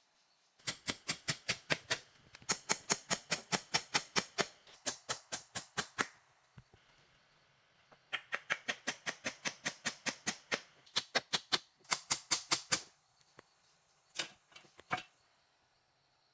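Rapid runs of sharp knocks, about five or six a second, in five bursts of one to two and a half seconds each, then two single knocks near the end.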